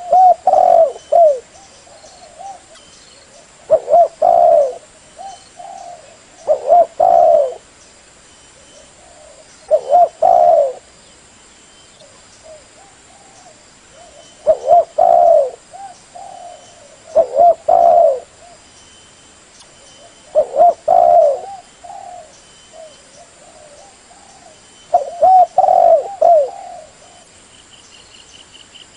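Spotted dove (tekukur) cooing: loud phrases of a few low coos about every three to four seconds, with fainter coos in between.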